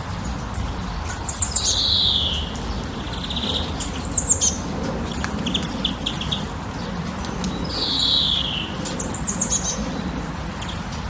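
A songbird repeating its song phrase: a quick run of very high notes and a slurred whistle falling in pitch, sung about every six seconds, with a short trill between phrases. A steady low rushing noise runs underneath.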